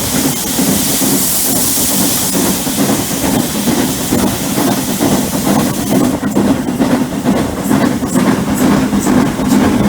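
Steam train running: a loud hiss of steam for the first few seconds that then dies away, over a steady rumble of the train. From about six seconds in there is a run of sharp clicks.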